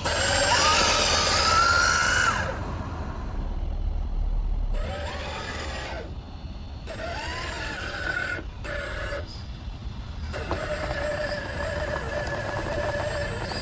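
Small electric motor of an RC crawler truck whining, its pitch rising and falling as it speeds up and slows down, in several short clips that cut off abruptly.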